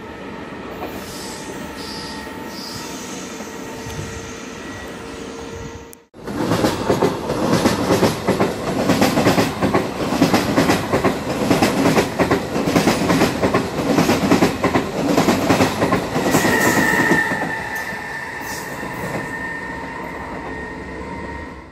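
Electric passenger train running past on the rails. At first comes a steady rumble with a faint thin whine. After a cut about six seconds in, a loud, fast clatter of wheels over the rails follows as the coaches go by close up. A high wheel squeal rises about sixteen seconds in, and then the sound eases off.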